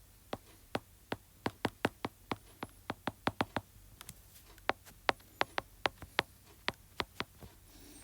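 Typing on a computer keyboard: an irregular run of about 25 sharp key clicks, roughly three a second, in short bursts with brief gaps.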